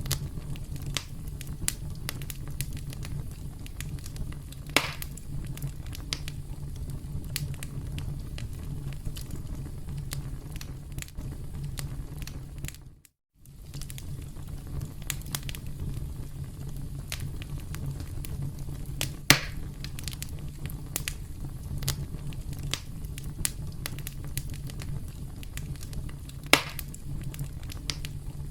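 Campfire crackling: a steady low rumble of burning with frequent small snaps and three louder pops spread through it. About halfway the sound fades out to silence for a moment and fades back in.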